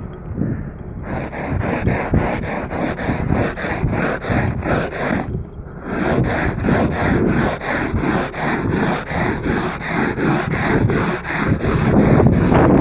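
Windshield being scraped clear of snow and ice, quick scratchy back-and-forth strokes about two or three a second, with a short pause about five seconds in.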